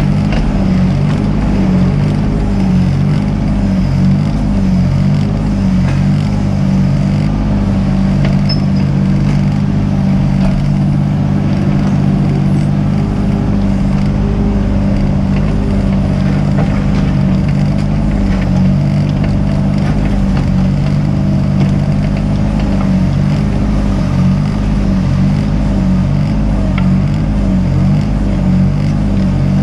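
Mini excavator's diesel engine running steadily under work, its note rising and dipping a little, with a few faint clicks and clatters.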